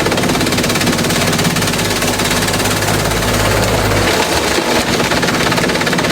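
Industrial bamboo shredder running, with a dense, rapid clatter of chopping over a steady low engine hum. The low hum drops away about four seconds in and comes back near the end.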